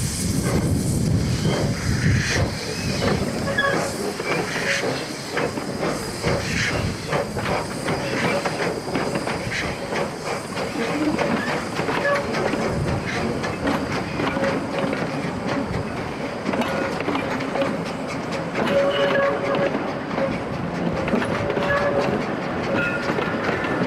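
Steam train running on the track, its wheels clicking over the rail joints, with a hiss of steam.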